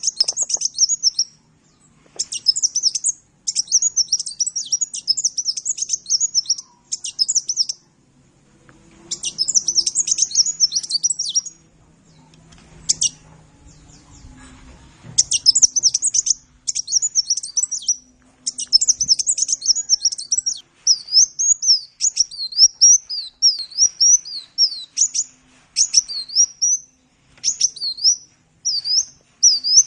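A sunbird singing: rapid, high-pitched twittering phrases broken by short pauses, turning into separate sweeping notes in the second half.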